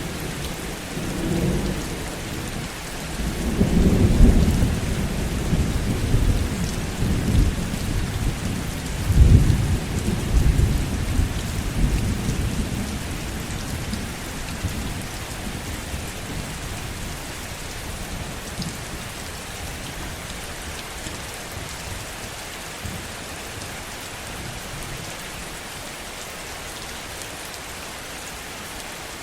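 Heavy, steady rain with a long roll of thunder. The rumble swells twice, about four and nine seconds in, then fades out over the next few seconds, leaving the rain alone.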